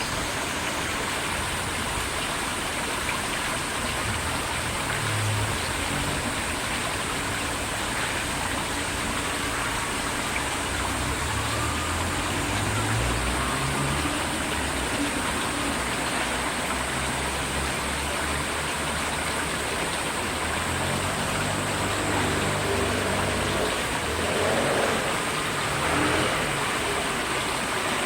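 River water flowing steadily, a constant rushing noise, with a brief swell in level near the end.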